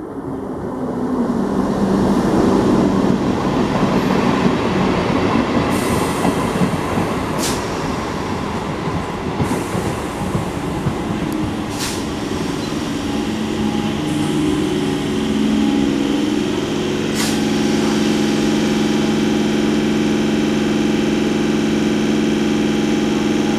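Electric multiple-unit suburban train passing close at speed: a loud rushing rumble of wheels on the rails, with a few sharp cracks. From about halfway through, a steady low hum from the coaches rises above it.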